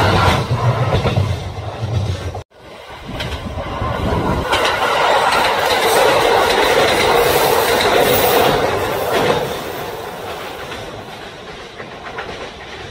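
Kintetsu electric trains passing, their wheels clacking over the rail joints. The first pass cuts off suddenly about two and a half seconds in. Another train then comes up loud, runs past with clacks, and fades away.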